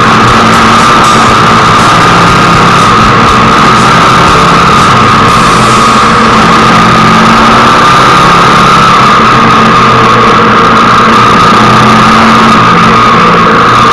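Hero Xpulse 200's single-cylinder engine running at a steady speed while riding.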